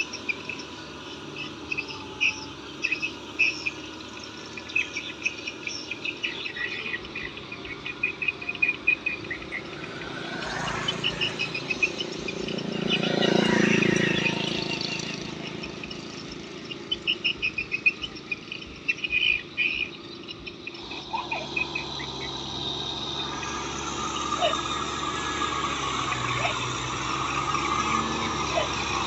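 Insects chirping in repeated rapid trills, with a broad rushing swell about halfway through. A low, steady tractor engine hum comes up and grows louder over the last third.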